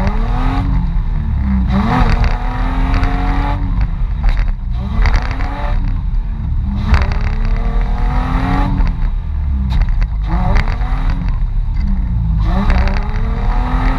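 Mitsubishi Pajero's engine revving up and dropping back over and over, about every two to three seconds, as the off-road 4x4 works to get free in deep snow.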